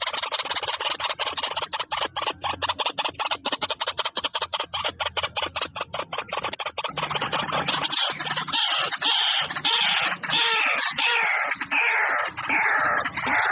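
Birds calling loudly: a rapid, dense chattering for the first half, then from about eight seconds a run of repeated calls that slide down in pitch, roughly one and a half a second.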